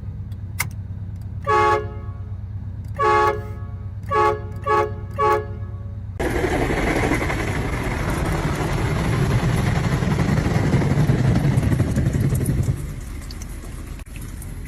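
Car horn honking five times, two longer toots and then three short quick ones, over a low steady hum. About six seconds in, a loud steady rushing noise begins and drops away near the end.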